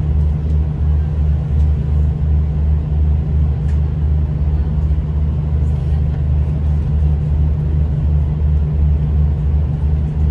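Low, steady rumble with a slight pulsing inside a V/Line passenger train carriage as it rolls slowly along the platform.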